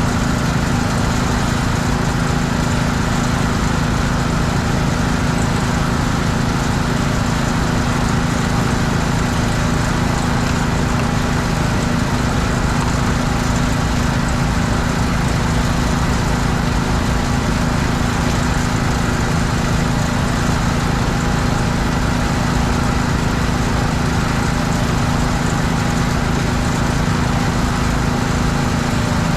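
Small petrol engine of a pressure washer running steadily at constant speed.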